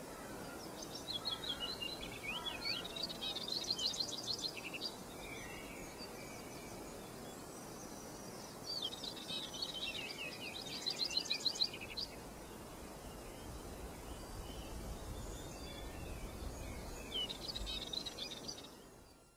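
A small songbird singing three bursts of quick chirping and trilled phrases, over a steady outdoor hiss; the sound fades out at the end.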